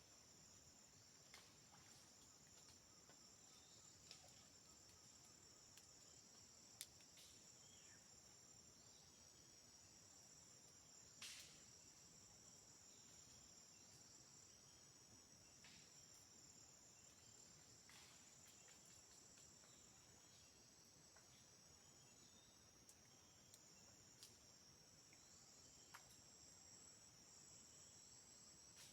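Steady high-pitched chorus of crickets or similar insects, with a few faint scattered clicks.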